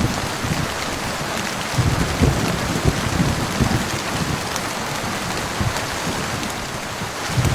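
Heavy rain falling steadily on a surface, with low thuds that come and go, strongest a couple of seconds in.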